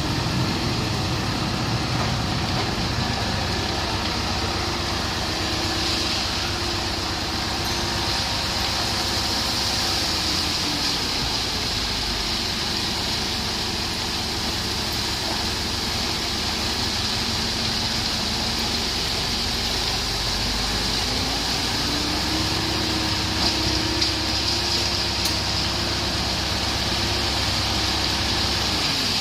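Ashok Leyland 3525 tipper truck's diesel engine running steadily, with a higher steady tone coming in for a few seconds near the start and again in the last third.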